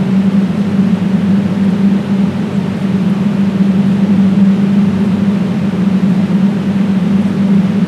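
A loud, steady droning hum under a constant hiss, strongest in a low band with fainter tones above it, unchanging throughout.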